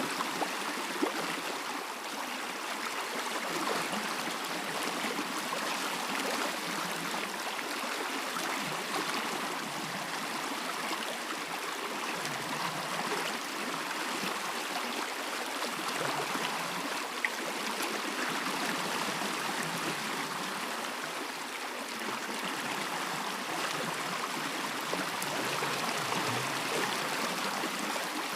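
Stream running steadily, a continuous even rush of flowing water.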